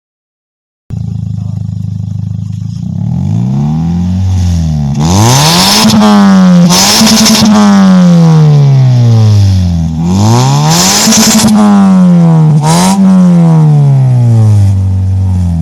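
Car engine exhaust through an HKS aftermarket muffler: it idles from about a second in, then is revved twice, each time climbing quickly and sinking slowly back toward idle, with a short extra blip of the throttle during the second fall.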